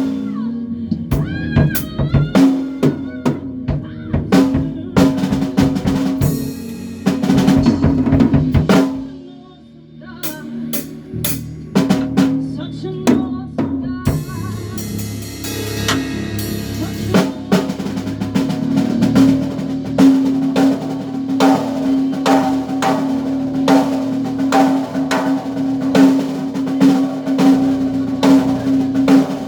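A band playing, dominated by a drum kit with snare and bass drum over a sustained bass note. The playing drops away briefly about nine seconds in, then settles into a steady, even beat.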